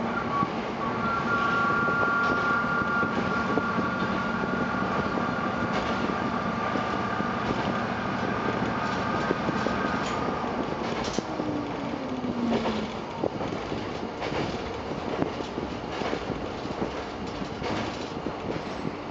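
Tsugaru Railway diesel railcar running along the line, heard from inside the car: a steady running drone with occasional clicks from the wheels over the track. A steady high whine sounds through the first half and stops about ten seconds in. Shortly after, a brief lower tone falls in pitch.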